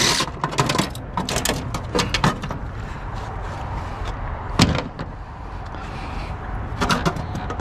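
Clicks, rattles and knocks of a printer's metal and plastic parts being pulled apart and handled by hand, with one louder knock about halfway through.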